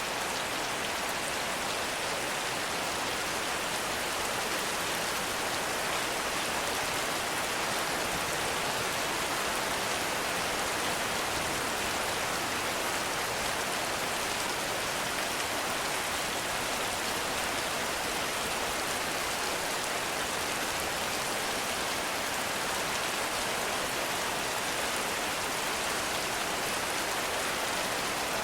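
Heavy rain falling in a forest, a steady, even hiss of countless drops with no thunder.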